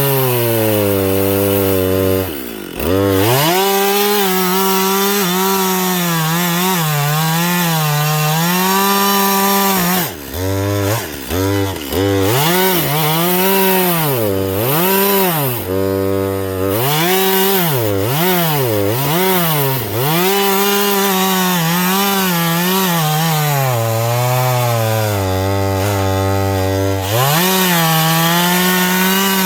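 Husqvarna 562 XP two-stroke chainsaw cutting wood on a dull chain, its engine pitch sagging under load and rising again over and over. The pitch drops sharply off the throttle about two and a half seconds in and several times around ten to twelve seconds in. This labouring is the sign that the chain needs replacing.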